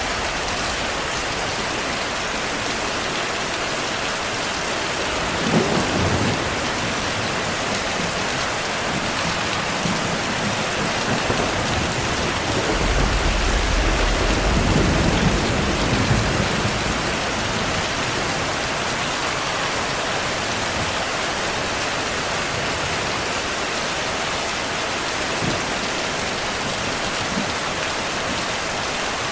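Steady heavy rainfall with thunder: a short sharp clap about six seconds in, then a longer deep rumble rolling through the middle.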